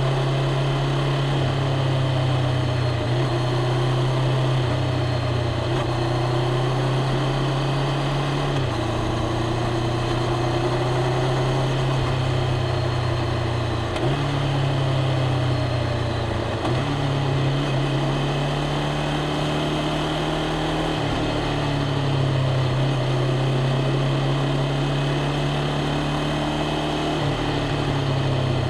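Honda CBR500R's parallel-twin engine running at low, fairly steady revs, with small shifts in pitch every few seconds.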